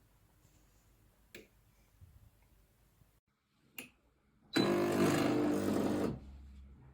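Espresso machine: two light clicks, then its pump buzzes for about a second and a half before dropping to a faint low hum.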